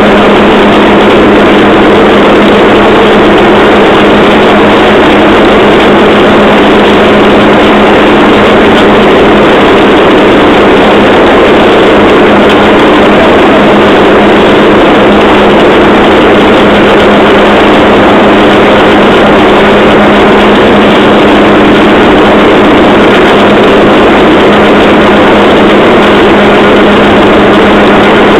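Motorised rail trolley running steadily along the track, loud and unbroken: a constant engine hum over a dense running noise.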